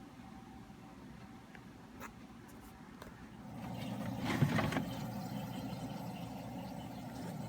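A couple of small clicks, then about three and a half seconds in an old Coldspot mini-bar fridge's compressor starts up with a brief rattle and keeps running with a steady low hum. It has been unused for about 40 years, and it works.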